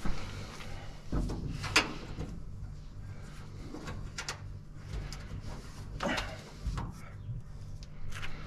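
Scattered metallic clanks and knocks from tools and parts being handled during work on a combine harvester, the sharpest about two seconds in, over a steady low hum.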